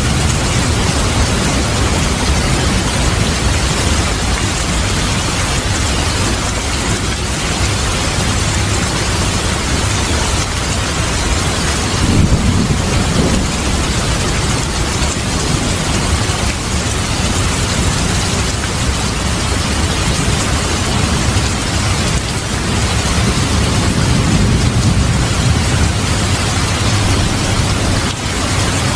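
Steady rain with low thunder rumbling underneath, swelling twice: once about twelve seconds in and again later on.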